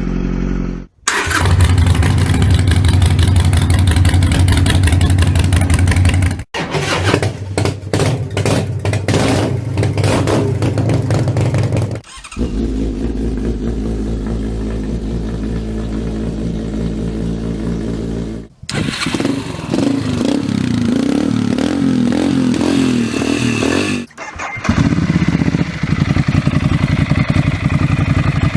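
A series of different motorcycle engines running and revving, about five short clips of a few seconds each, cut abruptly one after another, each with its own pitch and exhaust note.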